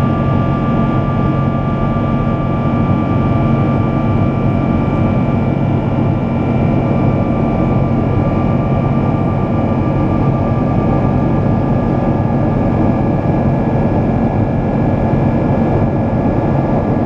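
Boeing 777-200 jet engines running steadily: an even drone with a high, steady fan whine over it.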